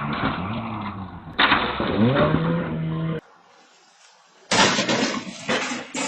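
Road traffic noise from a car, with a sudden loud burst about a second and a half in and a pitched engine note rising after it. The sound then drops away abruptly, and a different recording comes in with several sharp knocks.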